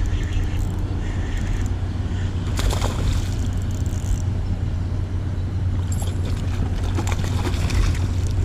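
Wind buffeting the microphone, a steady low rumble with a rushing hiss over it, swelling into a brief louder gust about three seconds in.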